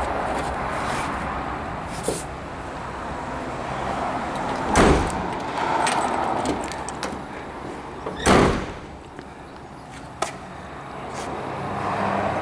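Two heavy thumps from a car door being worked, about three and a half seconds apart, over a steady background hiss.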